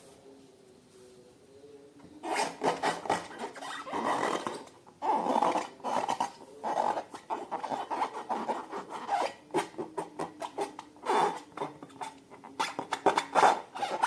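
Slime being squished and worked by hand, starting about two seconds in: quick, irregular clicky squelches that come in short bursts.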